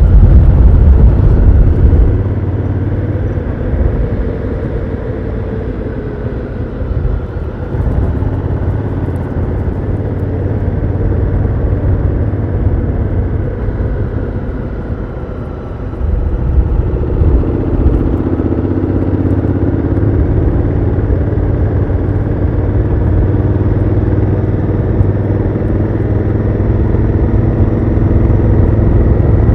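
Honda Africa Twin CRF1000L's parallel-twin engine and stock exhaust under way, heard from on the bike. It is loudest in the first two seconds, eases off to a low point just before the middle, then pulls again with a rising pitch from about 16 seconds in.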